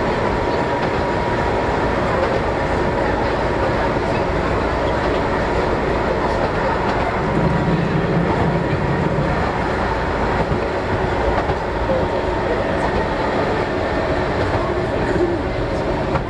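Keihan Ishiyama-Sakamoto Line train running on the rails: a steady rumble with a faint steady tone above it. A low hum joins about seven seconds in and lasts a couple of seconds.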